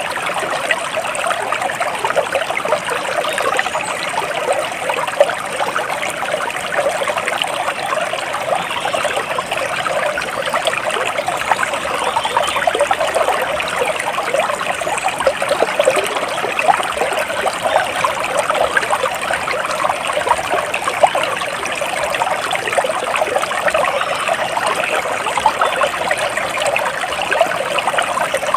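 Flowing water trickling steadily, a dense, unbroken splashing patter with no pauses.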